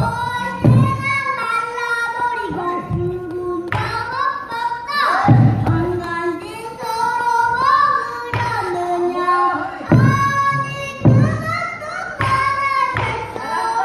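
Pansori singing: a solo voice holding long, wavering notes that slide and bend between phrases, with a few deep thuds from the buk barrel drum accompanying it.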